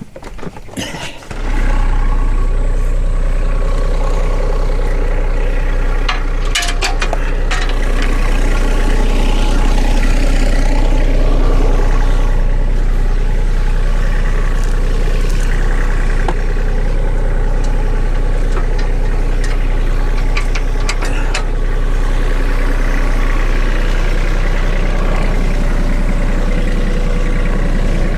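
Tractor engine starting about a second in, then running steadily while it powers the front-end loader's hydraulics to raise the bucket. A few short knocks come about six to seven seconds in and again around twenty seconds in.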